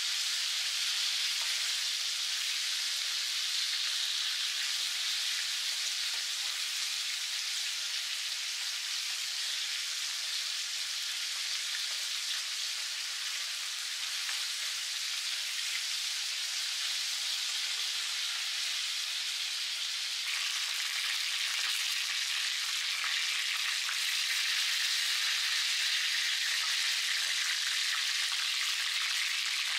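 Chicken wings sizzling as they shallow-fry in hot oil in a pan: a steady frying hiss that grows a little louder about two-thirds of the way through.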